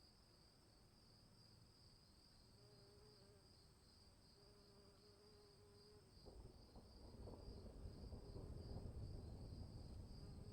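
Crickets chirping in a steady, fast-pulsing trill, faint overall, with a lower note coming and going beneath it. About six seconds in, a low rumbling, crackling noise rises under the chirping, in keeping with rain setting in.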